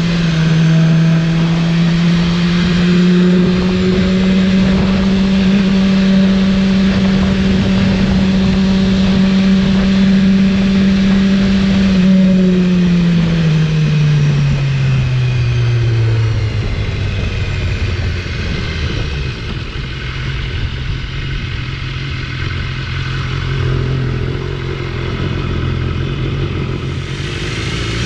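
BMW S1000RR inline-four engine running at steady revs under a rush of wind noise. About halfway through, the revs fall over a few seconds and settle at a lower steady note.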